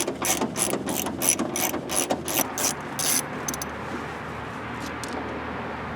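Hand ratchet with a Torx bit on an extension, clicking about three times a second as it backs out the screw holding the door handle, stopping about three seconds in; a few lighter ticks follow.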